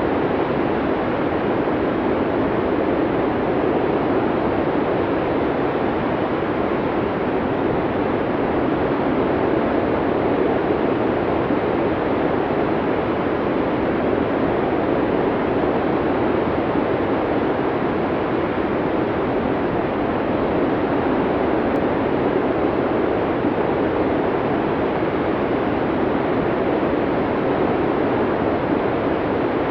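Blizzard wind blowing hard and steadily through a forest, a dense rushing noise with no gusts, pauses or changes.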